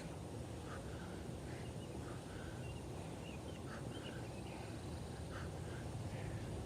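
A bird calling over and over, a short two-part note repeated about every second and a half, over a steady low background rumble.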